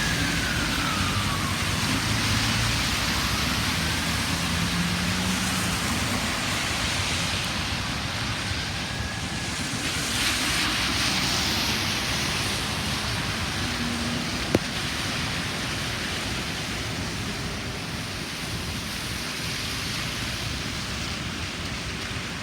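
Steady road and wind noise while emergency sirens fade into the distance. A siren wail dies out in the first second, then two fainter wails follow. A single sharp click comes about two-thirds of the way through.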